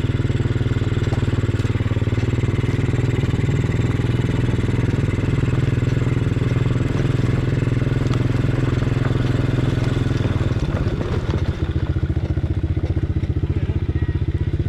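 An engine running steadily, its note changing to a choppier pulsing about ten and a half seconds in.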